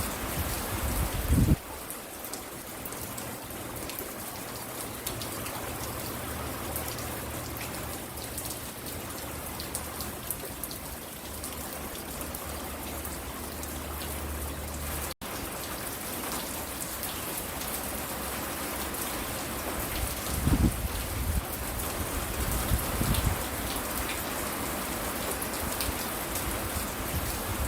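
Steady rain falling, with many small drop ticks and a few low thumps near the start and in the last third. The sound cuts out for an instant about halfway through.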